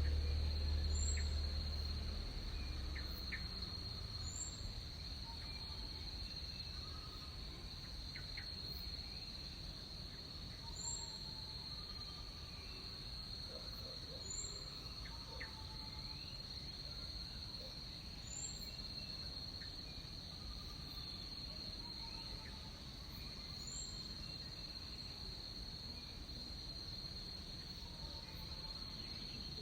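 Rainforest insect chorus: a steady, unbroken high-pitched drone, with faint short calls every few seconds. A low rumble fades out in the first couple of seconds.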